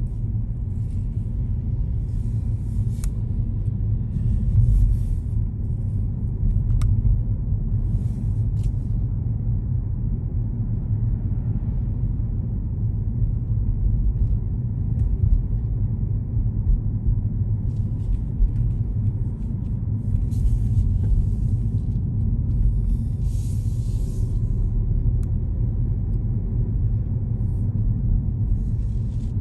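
Car driving through city streets: a steady low road and engine rumble, with short bursts of hiss now and then.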